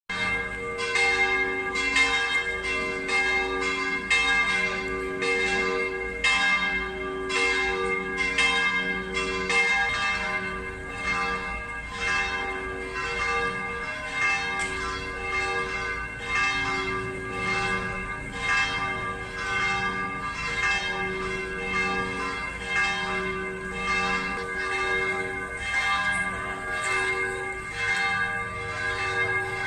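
Church bells ringing a peal: a continuous run of strikes, about two or three a second, their tones ringing on and overlapping.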